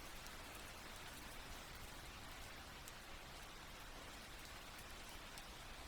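Steady, soft rainfall, an even patter of raindrops.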